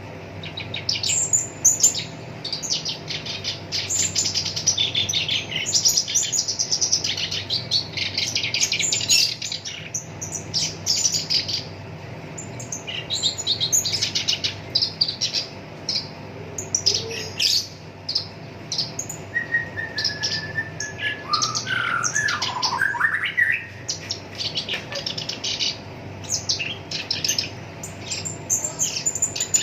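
Black-browed reed warbler singing: a fast, unbroken run of harsh, scratchy chattering notes. About two-thirds of the way through comes a brief level whistle and a short swooping phrase.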